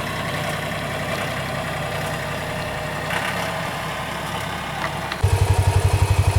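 A vehicle engine idling steadily, then getting suddenly louder with a strong, regular throb about five seconds in as it is throttled up.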